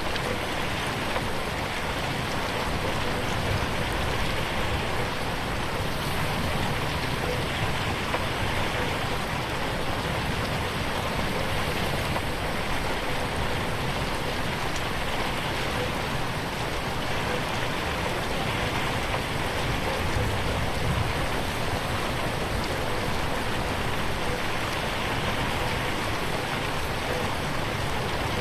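Steady rain falling on a window, an even patter without pauses.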